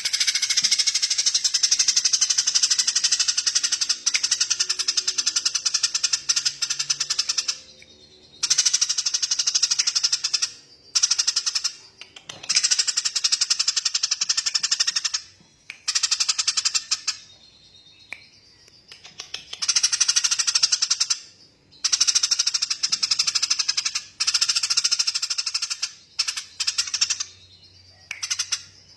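A small songbird's rapid, rattling trill, repeated in long bursts of several seconds with short pauses between them.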